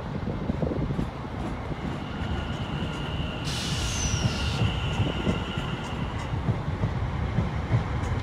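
South Western Railway electric multiple-unit train running past along the platform, with a steady rumble of wheels on the rails and a steady high tone. About halfway through comes a brief hiss with a short falling whistle.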